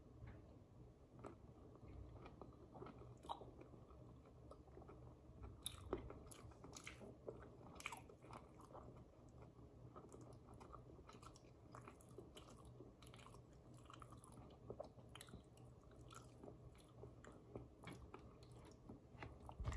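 Faint chewing and mouth sounds of someone eating seafood boil with their fingers, with scattered small clicks and crackles throughout.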